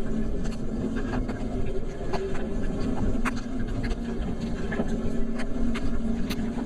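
A vehicle running steadily with a low hum and a steady drone, while light raindrops tap irregularly on the rain cover as sharp clicks.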